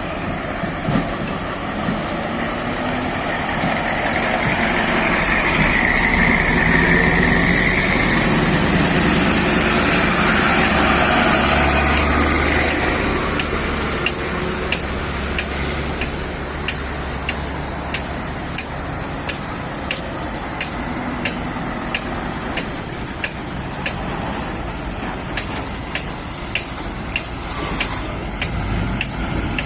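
A heavy vehicle's engine runs steadily, swelling for a while in the first half. Through the second half come regular sharp metallic clicks, a little under two a second.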